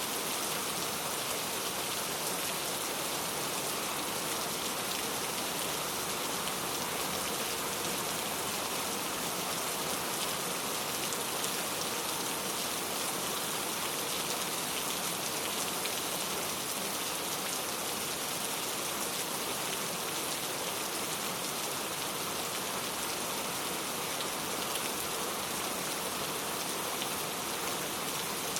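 Steady rain falling, with many fine drop patters on a surface.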